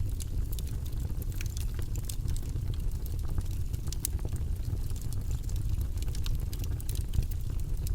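Campfire crackling, with frequent irregular small pops and snaps of burning wood over a steady low rumble.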